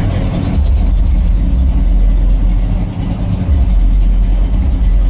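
A car engine running, a deep steady rumble that dips briefly about three seconds in.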